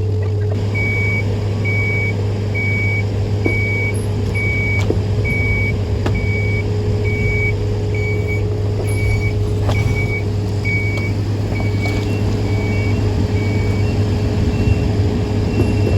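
Vehicle backup alarm beeping steadily, about once a second, over a loud, steady low machinery drone. Near the end a second, higher-pitched beep sounds, and a few sharp knocks come through.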